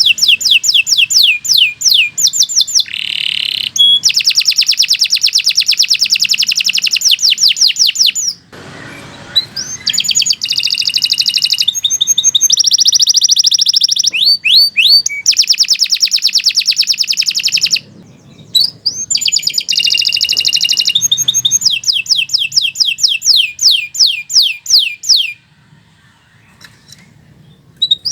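Domestic canary singing long, rapid trills of repeated high, downward-sliding notes. The song breaks briefly about a third of the way in and again just past halfway, then pauses for a couple of seconds near the end.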